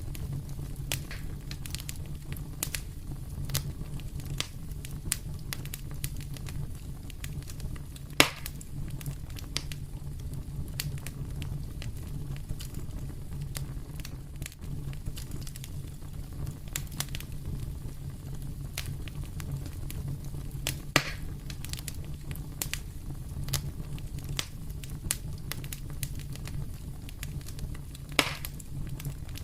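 Fireplace fire crackling, with many small snaps over a steady low rumble and three louder pops, about eight, twenty-one and twenty-eight seconds in.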